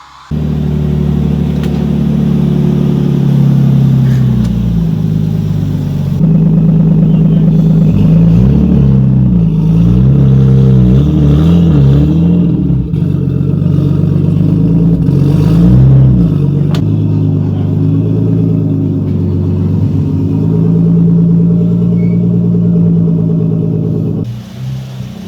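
Car engine running loudly, its pitch rising and falling again and again through the middle as it is revved and eased off, then settling before dropping away near the end.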